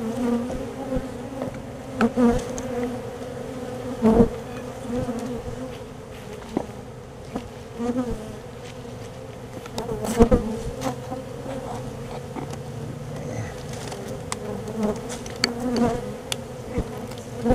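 A colony of disturbed feral honeybees buzzing in a steady, dense hum, with a few sharp knocks about 2, 4 and 10 seconds in.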